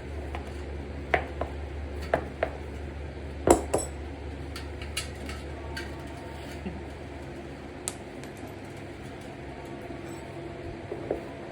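Hand tools and the metal wheel rim being handled, giving scattered sharp metallic clinks and knocks over a steady low hum; the loudest knock comes about three and a half seconds in.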